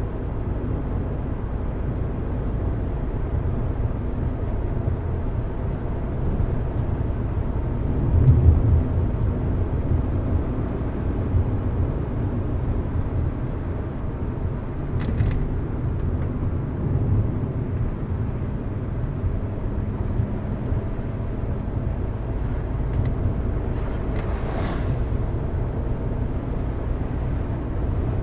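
Car driving along steadily: a low rumble of engine and tyre noise, swelling briefly about eight seconds in, with two short ticks, one around the middle and one near the end.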